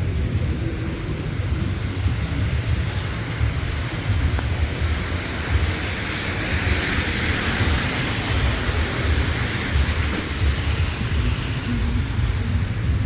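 City street traffic: a vehicle passing on a slushy, snowy road, its tyre hiss swelling and fading midway, over a steady low rumble.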